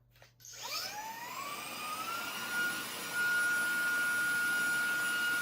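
ZARIMI cordless handheld car vacuum with a brushless motor switched on with a click: the motor spins up with a rising whine that settles into a steady high-pitched whine over rushing air, and it gets louder about three seconds in.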